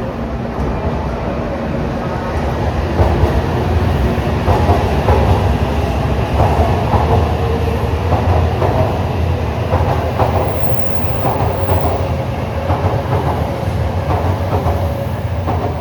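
A Shinkansen train moving along the station platform: a heavy low rumble that swells about three seconds in, with its wheels clattering about once a second, easing off near the end.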